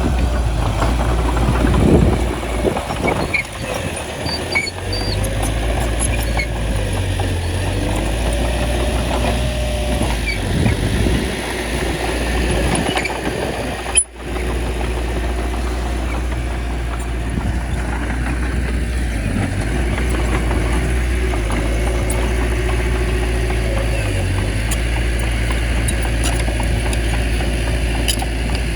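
Small bulldozer's diesel engine running steadily at a low, heavy hum while pushing soil, with a few short metallic clanks in the first few seconds. The sound cuts out for an instant about halfway through.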